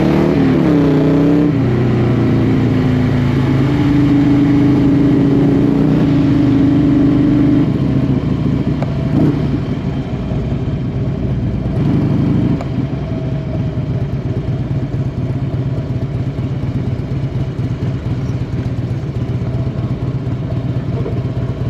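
Motorcycle engine running, its pitch rising and falling in the first couple of seconds, then holding steady before dropping to a lower, quieter drone about eight seconds in.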